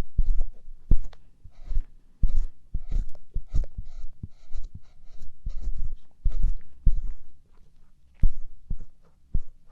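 Ear pick scraping and scratching in the ear of a binaural microphone, in irregular short strokes, each with a dull low thud and a scratchy rustle.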